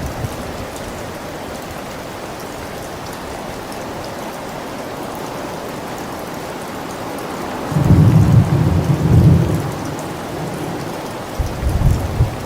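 Steady rain falling, with thunder rumbling low: a loud roll about eight seconds in that lasts about two seconds, then a shorter one near the end.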